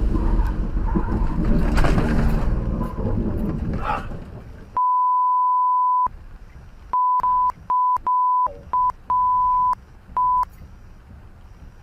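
Vehicle noise inside a car, then a steady single-pitch censor bleep about five seconds in, followed by a rapid string of shorter bleeps, with the original sound muted around each one. The bleeps mask swearing.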